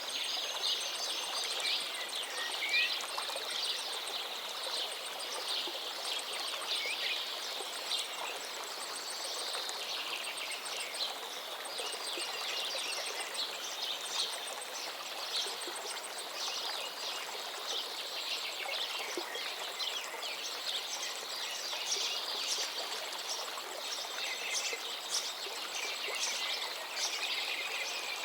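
Many songbirds singing and calling over the steady rush of a flowing forest river.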